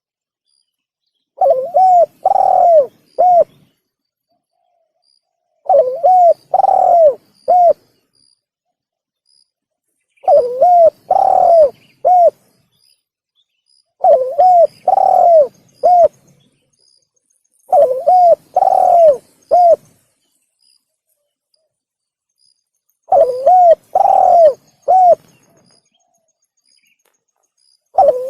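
Spotted dove (tekukur) cooing in repeated phrases of three or four coos, about one phrase every four seconds with dead silence between, six phrases in all: a recorded lure call for doves. Faint high chirps of small birds sit behind the coos.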